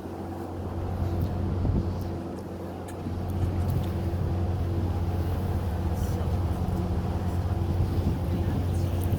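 Cruise boat's engines droning steadily, a low hum that grows louder about three seconds in.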